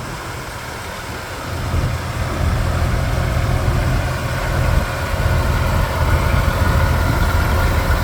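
Allis-Chalmers 210 tractor's diesel engine running as it rolls past, growing louder after about two seconds, with a steady whine over the engine in the later part.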